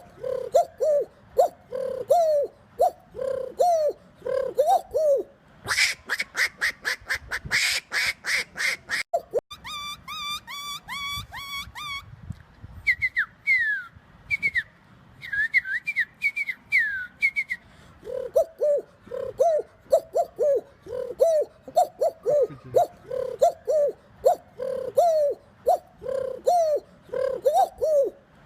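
A man imitating birds with his voice: first short falling calls about two a second, then a quick run of sharp calls and a rapid trill. High whistled chirps that fall in pitch follow, and after them the short repeated calls come back until the end.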